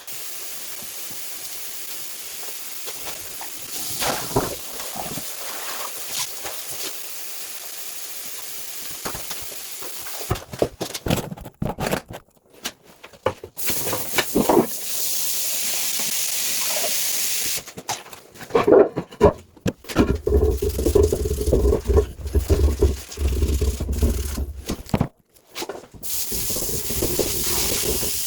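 Steady hissing in long stretches, broken by scattered knocks and clatter, with about five seconds of low humming in the last third.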